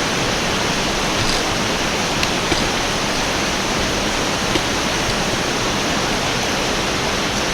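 Waterfall on a mountain creek, close by, with water rushing steadily. A few faint clicks about two and four and a half seconds in.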